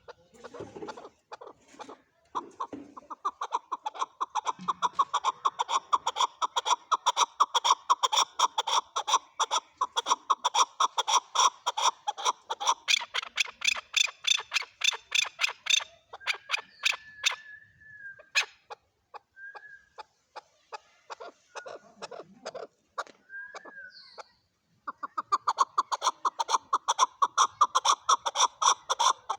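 Male chukar partridge calling: long runs of rapid, repeated chuck notes, broken in the middle by a few short, higher notes before the rapid series starts again near the end.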